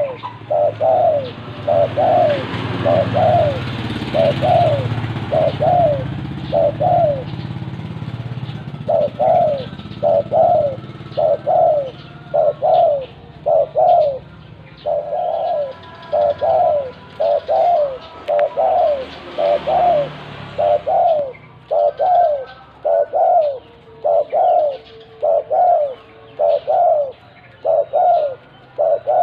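Spotted dove (tekukur) cooing over and over, about one short coo a second, with a brief pause about eight seconds in.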